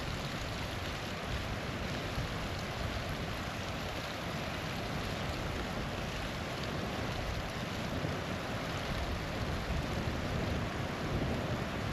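Small waterfall rushing steadily.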